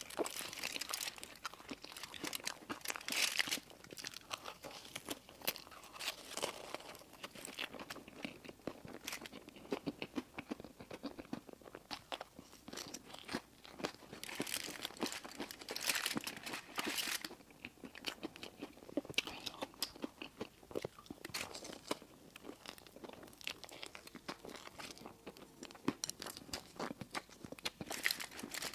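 A person chewing crunchy candy close to the microphone: a dense run of crisp crunches and crackles, with louder crunchy bites now and then.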